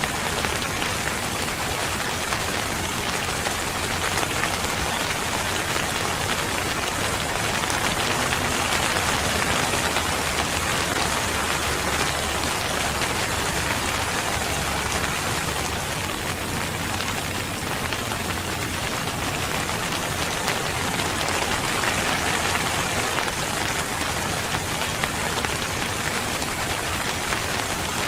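Steady rain falling and pattering on a surface, an even hiss with no thunder.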